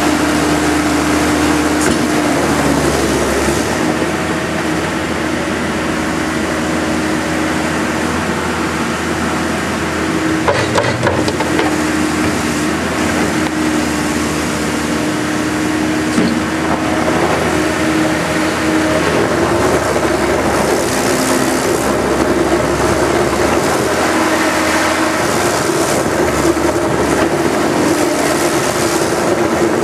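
Case 90XT skid steer's diesel engine running steadily while the machine is worked, its pitch shifting now and then, with a couple of short knocks about a third and halfway in.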